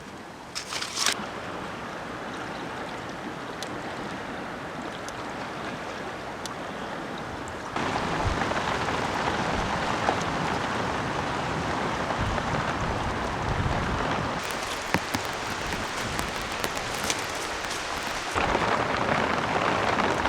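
Steady rain falling, stepping up louder about eight seconds in, with a few scattered drips or clicks.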